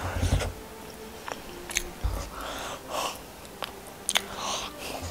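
A person chewing and biting food close to the microphone, with wet mouth sounds and scattered small clicks.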